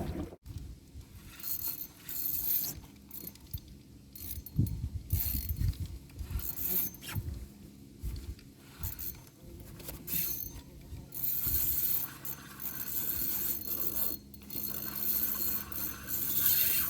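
Fishing reel being cranked in uneven bursts, its gears clicking and whirring as the line is wound in.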